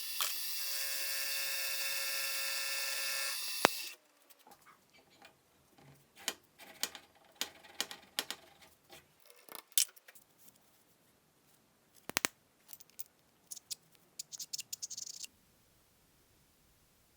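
An electric power tool's motor runs at a steady pitch for about four seconds and cuts off, followed by scattered clicks and clinks of metal parts and tools being handled.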